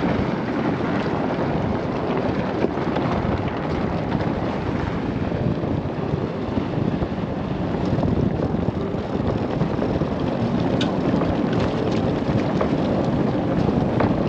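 Steady rumbling, rushing noise of a vehicle driving a dirt road, with wind on the microphone.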